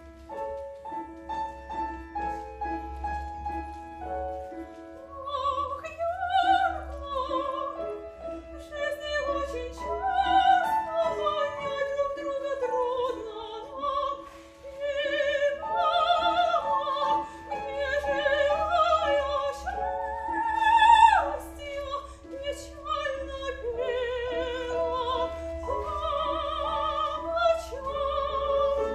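Operetta number: piano accompaniment alone for about the first five seconds, then a soprano voice singing with wide vibrato over it, rising to a high, loud held note past the middle.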